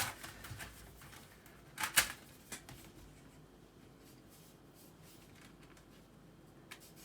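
A ruler and pencil handled on a paper exercise book on a desk: a click, then a louder tap with a brief scrape about two seconds in, a few small clicks, then faint rustling and light ticks.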